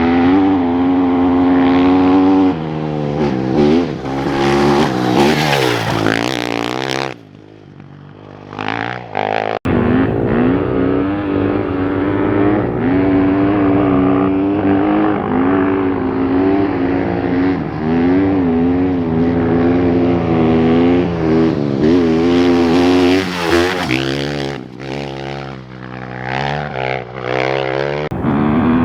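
Off-road racing motorcycle engines revving and passing, the pitch rising and falling with throttle and gear changes. About a quarter of the way through, the sound drops away for two to three seconds, then comes back at a sudden cut.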